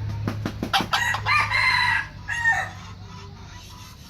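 Red junglefowl rooster crowing once: a short crow of about a second, ending in a short clipped note. A few sharp clicks come just before it.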